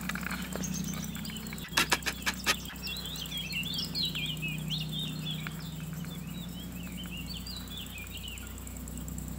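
A small bird singing a fast, twittering warble of quick varied notes for about five seconds, starting about three seconds in. Just before the song come four or five sharp clicks, the loudest sounds, over a steady low hum.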